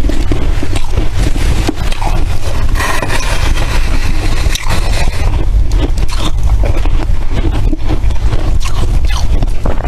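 Close-miked chewing of squeaky freezer frost: a dense, continuous run of crunches and squeaks from bite after bite.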